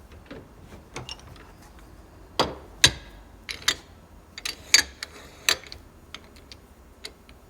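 Irregular sharp clinks and knocks of metal vise parts being handled, about a dozen, the loudest about two and a half, three and five seconds in.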